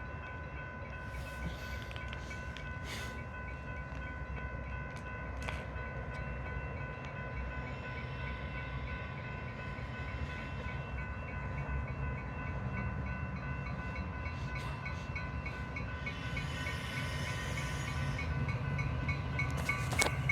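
Metra Union Pacific Northwest Line commuter train arriving at the station, its low rumble slowly growing louder. Several steady high tones are held over it throughout, with a few short clicks.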